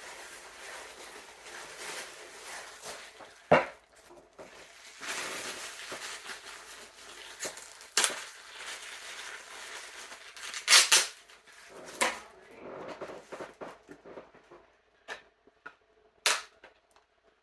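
Takeout food packaging being handled and opened: rustling, broken by several sharp snaps and clicks, the loudest pair about eleven seconds in.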